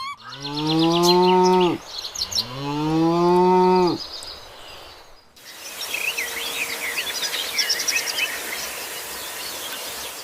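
A cow mooing twice, each moo a long drawn-out call of about a second and a half. After that, birds chirping over a steady high hiss.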